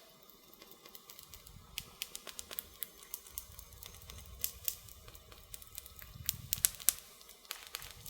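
Campfire crackling: irregular sharp pops and snaps of burning wood, busiest about three quarters of the way through, over a faint low rumble of the flames.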